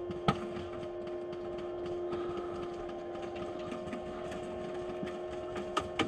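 Airsoft gunfire: faint rapid ticking throughout, with a sharp snap shortly after the start and two more near the end, over a steady hum.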